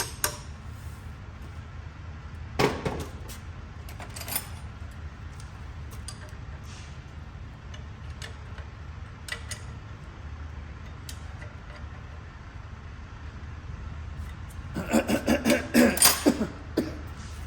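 Metal objects being handled: a couple of sharp knocks, then a quick run of ringing metallic clinks near the end, over a steady low hum.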